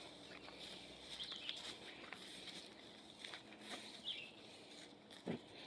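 Footsteps through woodland brush, with leaves and twigs crackling and rustling, and a few brief bird chirps.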